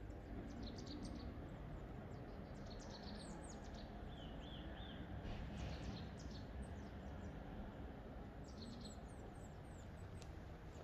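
Small forest birds chirping in short high calls, with a quick run of four repeated notes near the middle, over a steady low background rumble.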